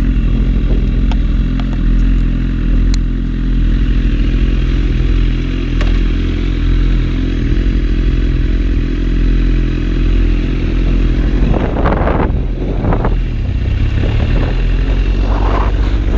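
BMW S1000RR sport bike's inline-four engine idling steadily, with a few short bursts of louder noise about twelve seconds in.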